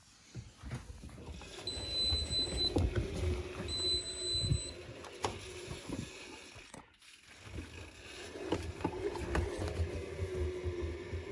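Privileg 5020 front-loading washing machine tumbling its drum: the motor hums over a low rumble with sloshing and knocks, stops briefly about seven seconds in, then turns again. The uploader says the motor sounds worn. Two short high electronic beeps sound about two and four seconds in.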